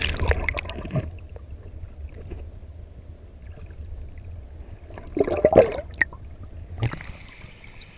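Creek water gurgling and splashing under a steady low rumble, with a louder splash about five seconds in.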